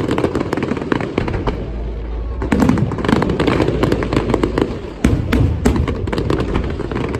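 Aerial fireworks bursting and crackling in a rapid, continuous barrage, with heavier bursts about two and a half and five seconds in.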